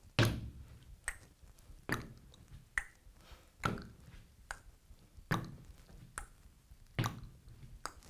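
Rubber gumboots set down on a platform in a slow, even rhythm as a leg is lifted and put back again and again: a heavier thump about every second and a half to two seconds, with a lighter knock halfway between each pair.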